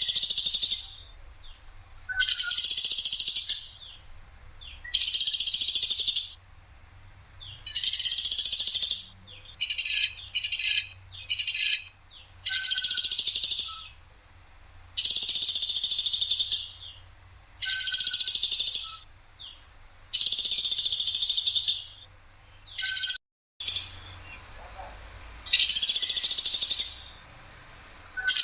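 Platuk sampit woodpecker giving harsh, sharp, high calls in bursts of about a second each, repeated every couple of seconds, with a quicker run of three shorter calls about ten seconds in.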